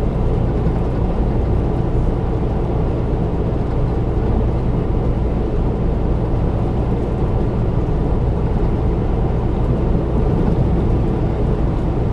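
Steady low drone of a semi-truck's diesel engine and road noise, heard from inside the cab while cruising on the highway.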